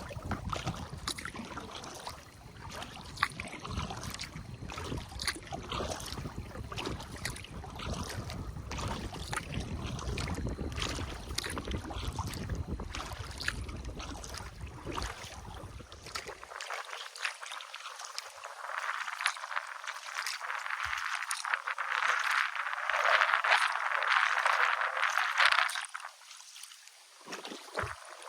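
Kayak paddling on a river: water splashing and dripping from the paddle against the hull, with wind rumbling on the microphone. About halfway the rumble drops away suddenly, and a louder rush of splashing water follows.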